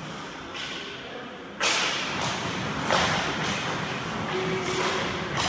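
Ice hockey play sounds: a sudden hard thud about a second and a half in, then several sharp knocks over steady scraping noise.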